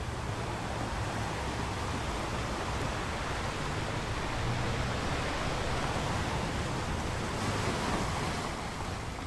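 Steady rush of water, like surf or a strong flow, swelling slightly through the middle and easing near the end.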